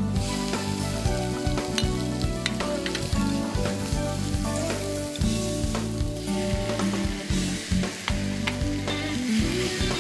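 Food sizzling in a hot stainless steel pan as stir-fried vegetables and then, about halfway through, boiled ramen noodles are tipped in and stir-fried, with small ticks of utensils against the pan.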